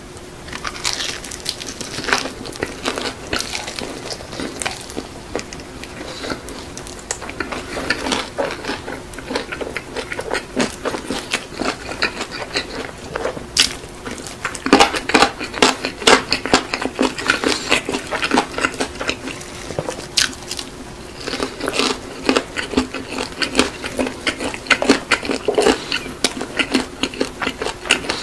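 Close-miked chewing of crispy-coated BHC Bburinkle fried chicken: a dense run of crackly bites and crunches, growing louder about halfway through.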